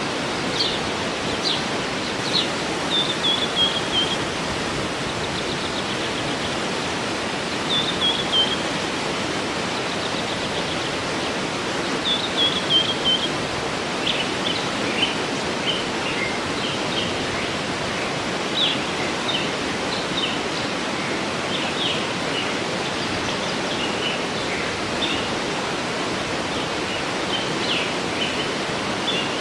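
Waterfall rushing steadily, with songbirds calling over it: scattered short high chirps, and a few quick falling runs of notes in the first half.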